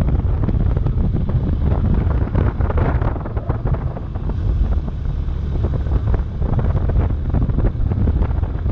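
Heavy wind buffeting on the microphone of a moving motorcycle: a loud, steady low rumble of wind and road noise.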